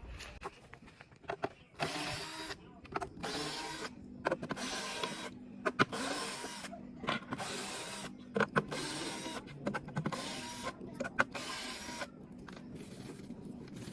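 Cordless power screwdriver backing out screws: the motor whirs in six runs of about a second each, with sharp clicks between them.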